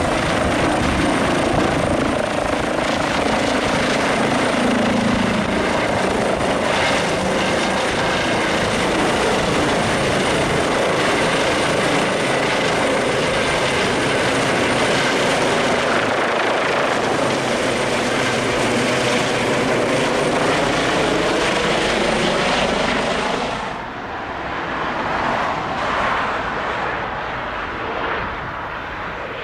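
Helicopter running close by: a loud steady rotor and engine noise with a thin high whine over it. About four-fifths of the way through the sound suddenly drops away and turns quieter and more uneven.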